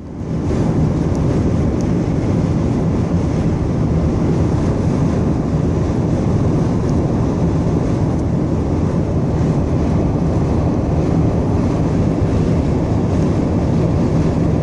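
Steady rush of road, engine and wind noise inside a moving car driving through strong wind.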